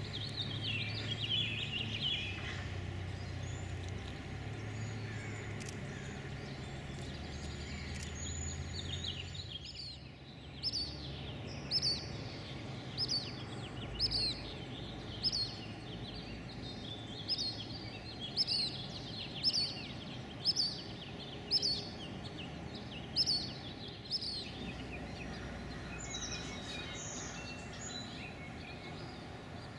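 Wild birds calling: scattered chirps in the first few seconds, then from about a third of the way in a bird repeats a short, high, falling call roughly once a second for about thirteen seconds.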